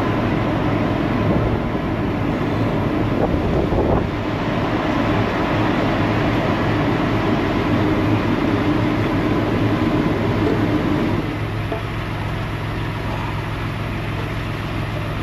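Steady low mechanical drone with a constant hum, easing off a little about eleven seconds in, with a faint knock or two about three to four seconds in.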